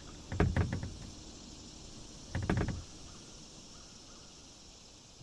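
Kayak paddle strokes in the water, two of them about two seconds apart, each a short bump with quick clicks.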